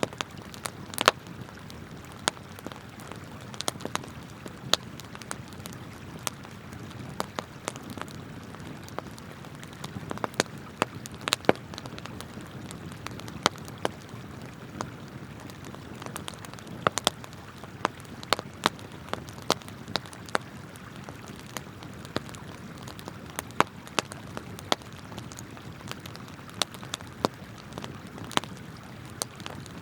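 Wood campfire crackling and popping in frequent, irregular sharp snaps of varying loudness, over the steady rush of flowing river water.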